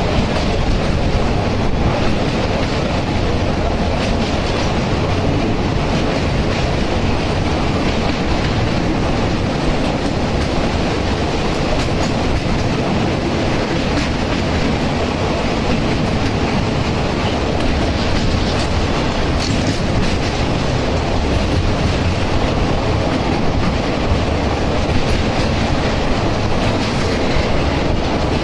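Indian Railways express train running steadily on the line, a continuous loud rumble of wheels and coaches with wheel clatter over the rail joints.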